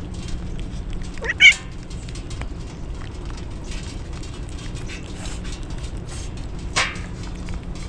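A cat meowing: one loud rising meow about one and a half seconds in and a shorter one near the end, over a steady background of rain.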